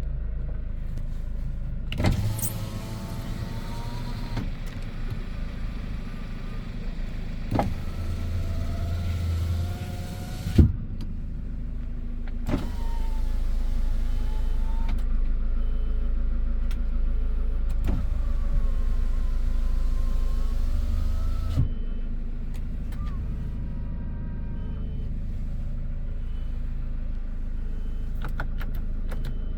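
A truck's diesel engine idling steadily while a small electric motor whines in four spells of a few seconds each. Each spell starts or stops with a sharp clunk, the pattern of power windows being run up and down.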